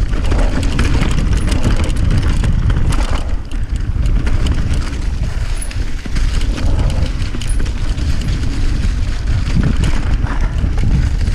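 Wind rushing over the microphone with a heavy low rumble, and a stream of clicks and rattles from a bicycle rolling over rough ground.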